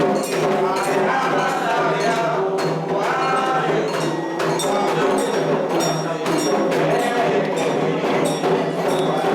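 Candomblé ritual music: hand drums and a ringing struck metal bell keep a fast, steady rhythm under group singing.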